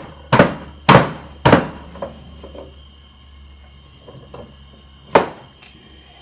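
Hammer blows driving a new seal into a vintage Stihl chainsaw's housing: three sharp strikes about half a second apart, a lighter tap, then one more strike about five seconds in.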